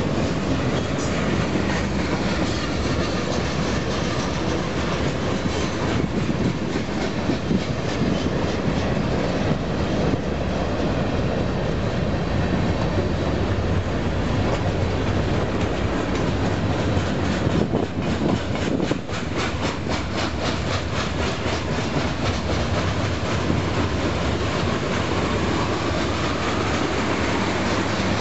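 Freight cars of a passing freight train rolling by close at hand: steel wheels rumbling on the rails with a steady clickety-clack over the rail joints. A quicker run of evenly spaced clacks comes about two-thirds of the way through.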